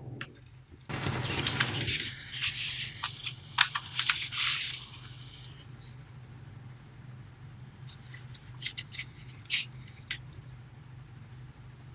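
Paper being handled: a rustle, then a run of sharp crinkles and crackles, and a few more scattered crackles later, over a steady low hum.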